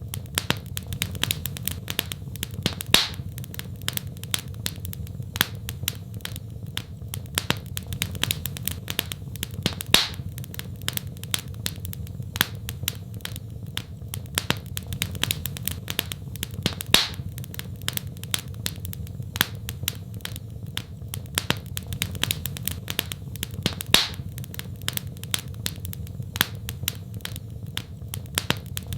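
Wood fire in a fireplace crackling steadily, with a louder pop about every seven seconds over a low, steady rumble of the flames.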